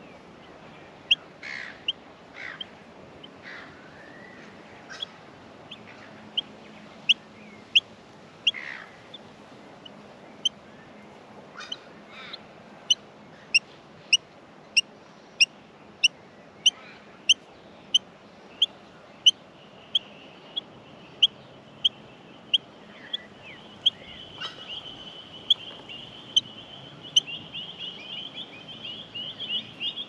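Bird calls: short, sharp, high chirps, scattered at first and then repeated evenly at about one every two-thirds of a second. From about three-quarters of the way through they give way to a continuous high twittering that grows louder.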